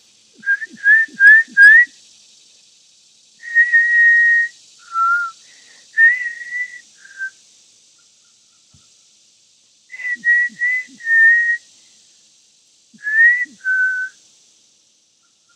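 A woman whistling through her lips in short phrases: a quick run of four notes, a few longer held notes, later another run of four and a final pair, with pauses between phrases.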